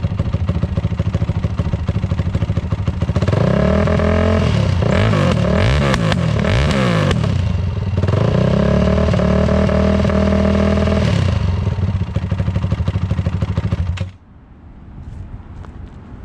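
Honda CRF450R single-cylinder four-stroke engine with an FMF full exhaust and no spark arrestor, loud: idling, then revved in several quick blips rising and falling from about three seconds in, held at higher revs for a few seconds, and dropped back to idle. The engine sound stops abruptly near the end.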